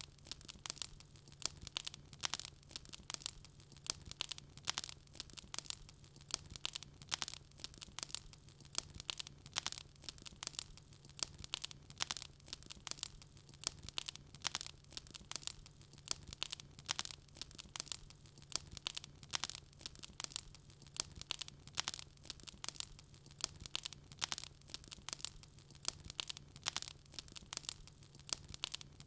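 Wood fire crackling in a fireplace: a dense, irregular run of sharp pops and snaps from the burning logs.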